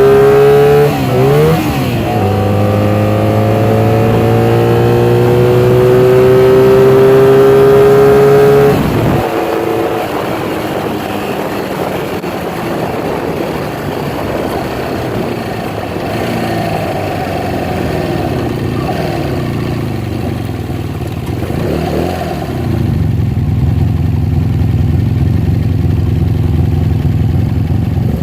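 1982 Honda Magna's V4 engine running through new Emgo mufflers while the bike is ridden. The note climbs as it accelerates, dips and climbs again after a shift about a second and a half in, then falls off sharply about nine seconds in to a rougher, lower running. It grows louder again a little before the end.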